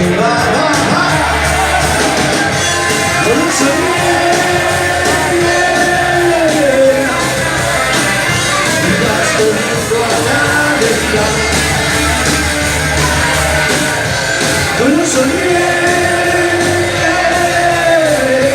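Rock song played by a band, with long melodic phrases that hold and slide in pitch over a steady, loud backing.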